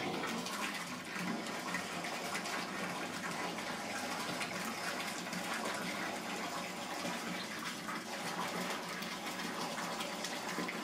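Bath tap running into a partly filled bathtub: a steady rush of water.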